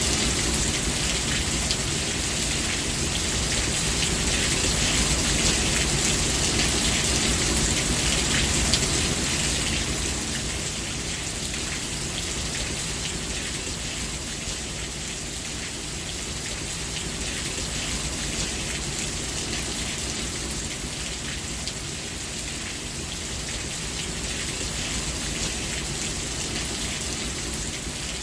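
Steady rain falling on a surface, a dense even patter that eases slightly about ten seconds in.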